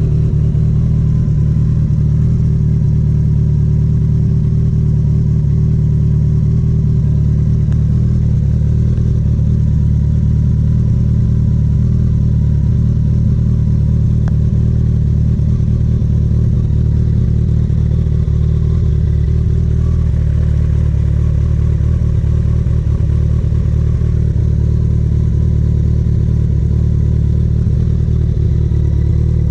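Kawasaki ZX-14R's inline-four engine idling at a steady, unchanging speed.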